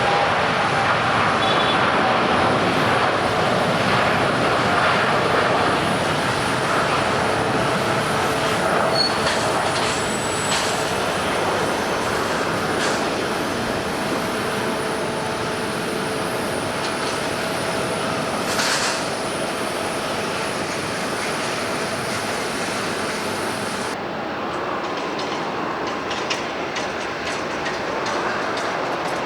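Jet airliner engines: a steady, loud roar with a faint whine that slowly falls in pitch. About three quarters of the way through, the sound changes suddenly and the highest hiss drops away.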